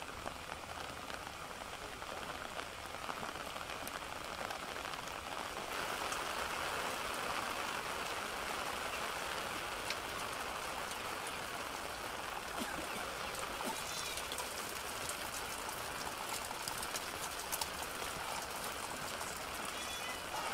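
Steady rain falling, an even hiss that grows a little louder about six seconds in.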